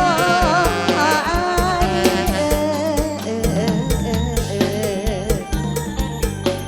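Live Isan mor lam band music: a steady, even kick-drum beat under a wavering lead melody that fades after about two seconds, leaving mostly the beat and backing.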